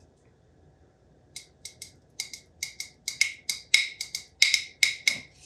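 A series of about a dozen short, sharp clicks or taps, coming closer together and louder toward the end.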